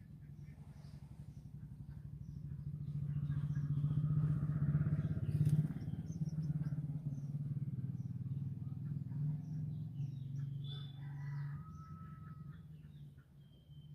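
A motor vehicle engine passing by, growing louder over the first five seconds or so and then slowly fading. Small birds chirp throughout.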